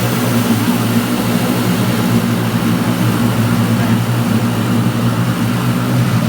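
High-pressure water jets of a WashTec SoftCare 2 Pro touchless car wash blasting the car, heard from inside the cabin: a loud, steady hiss of spray on the body and glass with a low hum underneath.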